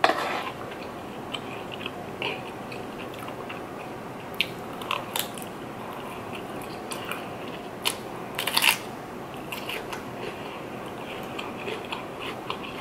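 A person chewing a mouthful of fried sausage and rice, with a few short crunchy clicks, the loudest about eight and a half seconds in.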